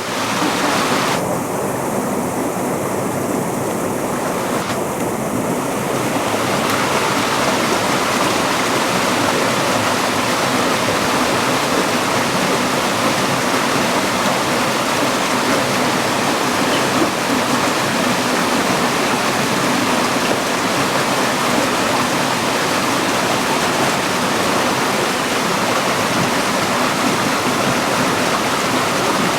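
Ohau Stream waterfall pouring into its pool: a steady, even rush of falling water.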